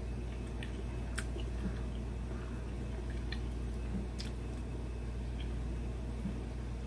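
Someone chewing a mouthful of soft stir-fried fish cake, faint and wet over a steady low hum, with a few light clicks.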